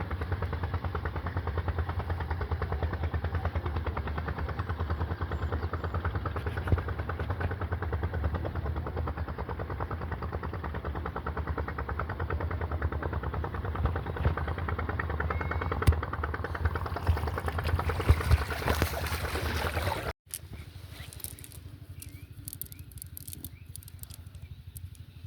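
A small engine running steadily with a rapid pulsing beat and a strong low hum. It cuts off abruptly about twenty seconds in, leaving quieter outdoor sound with scattered clicks.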